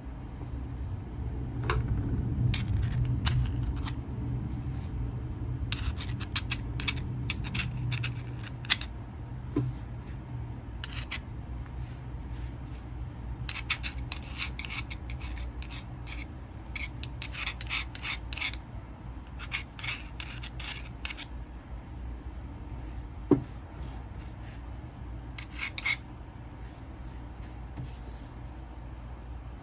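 Old grease being scraped and rubbed out of an angle grinder's gear housing: runs of short scratchy strokes, with a low rumble in the first several seconds and a couple of sharp knocks near the end.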